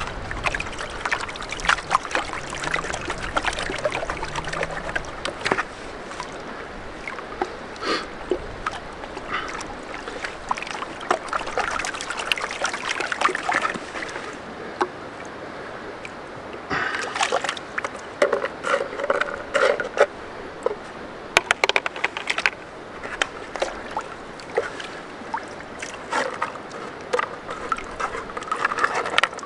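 Gravel being washed in a gold pan in river water: water sloshing and splashing, with stones clicking and rattling against the pan and each other, in denser bursts about halfway through and again a few seconds later.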